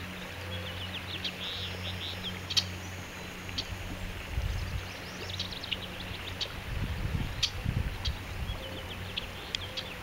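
Songbirds chirping: quick series of short high chirps about a second in, near the middle and near the end, with a few sharp single chips between them, over a low steady hum and some low rumble.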